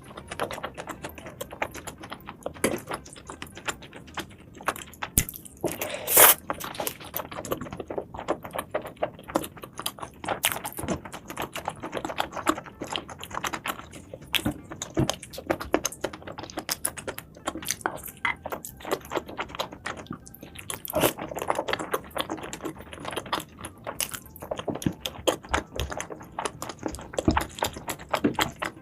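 Close-up eating sounds of a person chewing seafood: a steady run of small irregular clicks and smacks, with one louder noise about six seconds in.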